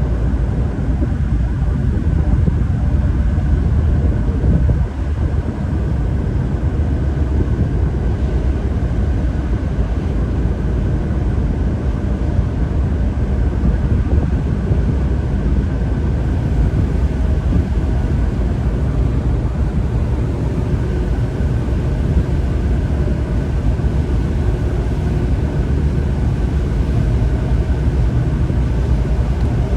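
Tugboat engine running steadily: a continuous deep rumble with faint steady tones riding above it.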